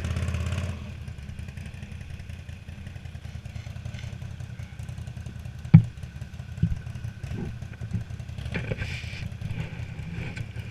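Vehicle engine idling with a steady low, pulsing rumble. A sharp knock comes about six seconds in, and a lighter one follows.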